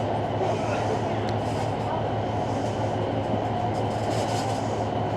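Diesel passenger train running with a steady low engine hum under an even rumble, with no clear clicks or squeals.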